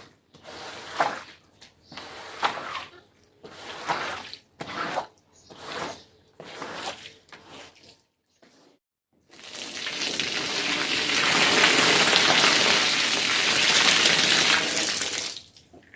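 Wet swishing strokes on carpet, about one a second, then about halfway a loud continuous rush of water for about six seconds, typical of a carpet being rinsed.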